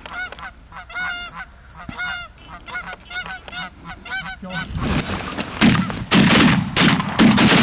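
Geese honking, a rapid run of short calls, then from about five seconds in a volley of loud shotgun blasts from several guns firing close together.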